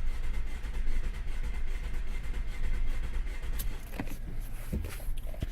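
A steady low vehicle rumble, with a few light clicks and knocks in the last couple of seconds.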